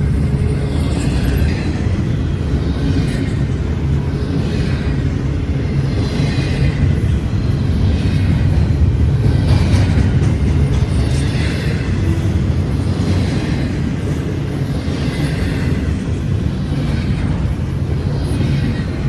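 Double-stack intermodal freight train rolling past: a steady low rumble with a clatter from the wheels that swells and fades again every second and a half or so as each car's trucks go by.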